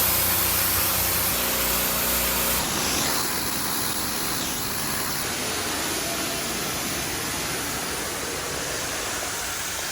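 High-pressure steam cleaner spraying: a steady hiss of spray over the machine's running engine. The low engine hum drops away about three seconds in, leaving the hiss slightly quieter.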